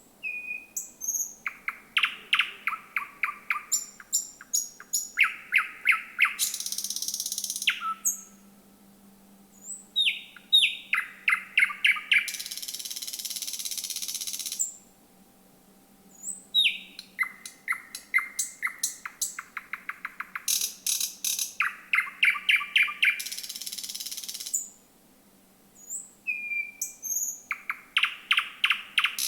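Thrush nightingale singing at night: phrases of sharp high notes and rapid clicking, knocking series, each phrase ending in a long, harsh, hissing rattle. Four phrases follow one another with short pauses between them.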